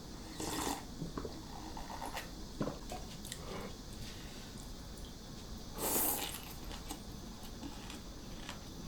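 Close-up eating sounds: chewing with scattered small mouth and utensil noises, and two louder brief bursts, one about half a second in and one about six seconds in.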